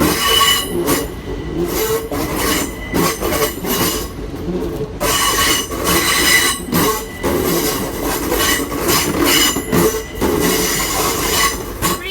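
Class 465 Networker electric train running slowly over the rails with its wheels squealing, a steady high squeal mixed with irregular clicks and clatter over the track.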